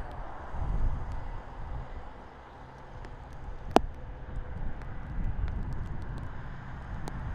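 Wind gusting across the microphone outdoors, a low buffeting rumble that rises and falls, with one sharp click just under four seconds in.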